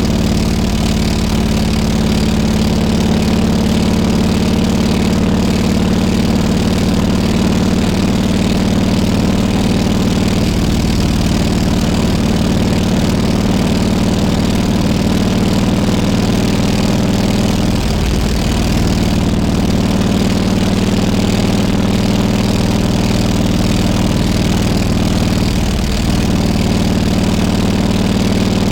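Harley-Davidson Road King Classic's V-twin engine running at a steady low speed, its note dipping briefly twice, once past the middle and once near the end.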